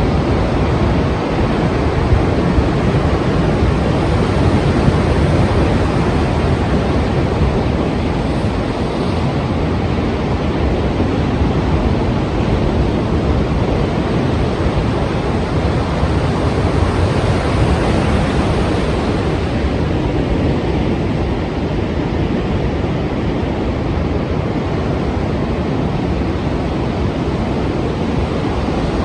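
Strong sea waves: a continuous rush of surf that swells a little a few times.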